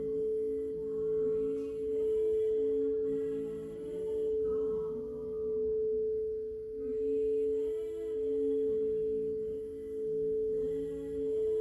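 Singing bowl ringing with one steady sustained tone that swells and fades about every second and a half. Softer, shifting tones sit above it.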